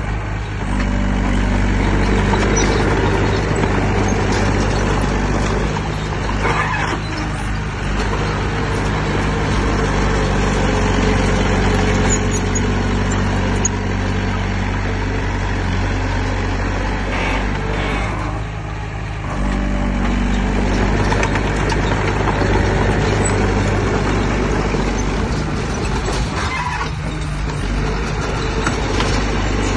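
Heavy diesel engine of earthmoving machinery running hard, its note shifting a few times, with short rasping noises about 7, 17 and 27 seconds in.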